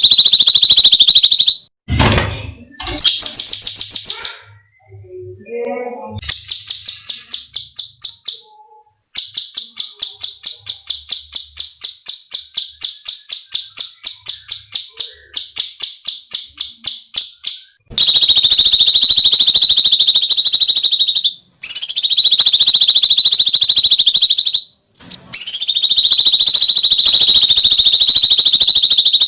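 Cucak cungkok (a leafbird) singing. Long, harsh, high screeches alternate with a long tight roll of rapidly repeated notes, about four or five a second, that runs for roughly ten seconds through the middle. The screeches return and dominate the end.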